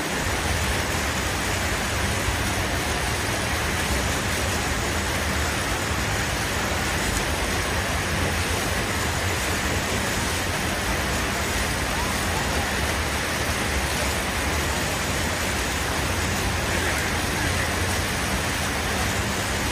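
Steady road traffic noise: vehicle engines running as a low hum under a continuous hiss, with no breaks.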